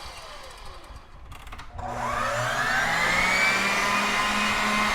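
Stand mixer with an AC motor switched on at its fastest speed, about two seconds in: the motor spins up with a steeply rising whine that levels off into a steady, noisy run over a low hum.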